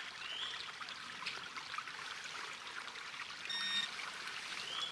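A steady trickling hiss with small crackles, a short rising chirp repeating about every half second, and one brief electronic beep about three and a half seconds in.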